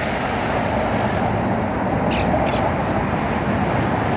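Steady traffic noise from a busy multi-lane road, with a couple of brief high chirps about two seconds in.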